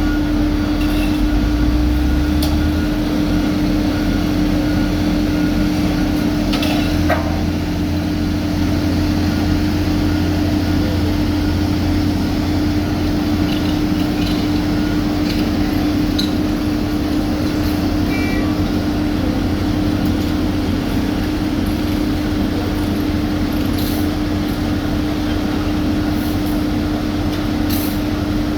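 Heavy road-paving machinery running steadily, a diesel engine's constant drone and hum with a low rumble, with a few short clinks and knocks.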